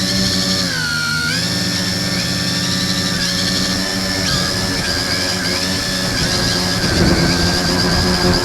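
Electric motors and propellers of an X101 multirotor drone running under throttle, heard close up from a camera taped to its frame: a loud, steady whine whose pitch dips about a second in, then shifts up and down with throttle.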